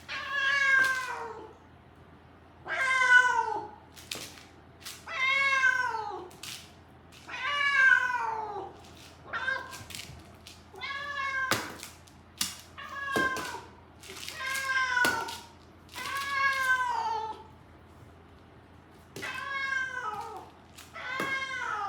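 A Siamese-mix cat meowing over and over, about ten drawn-out calls each falling in pitch, a second or two apart: the persistent crying of a cat that will not settle to being kept as a room cat. A few light clicks between the calls.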